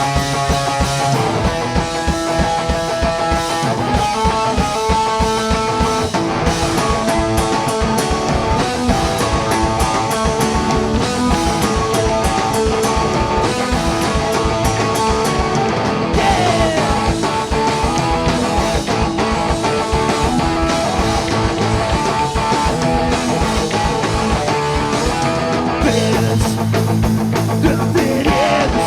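Live punk-rock band playing loud: distorted electric guitars, bass and drums driving a fast steady beat, recorded from the floor of a small club.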